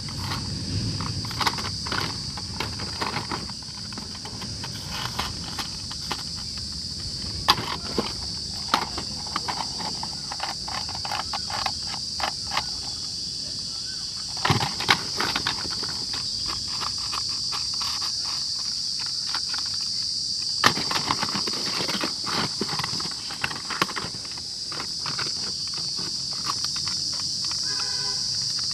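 Irregular clicks and knocks of plastic toy vehicles being handled and set down, over a steady high-pitched insect chorus.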